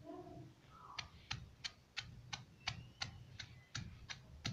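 Light, even tapping of a pestle pounding eggshells to a fine powder, about three taps a second.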